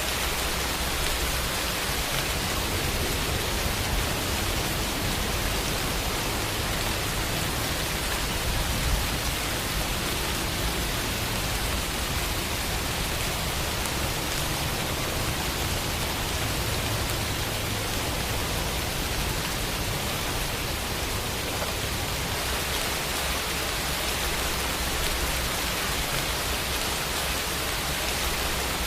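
Steady rain falling, an even hiss of many drops with no distinct single hits.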